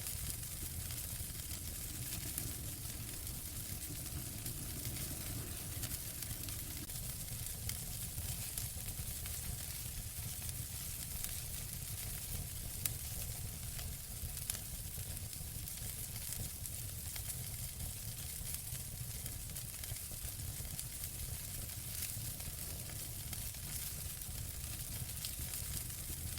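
Wood fire crackling in a fireplace: a steady hiss dotted with frequent small pops and crackles, one sharper pop about halfway through.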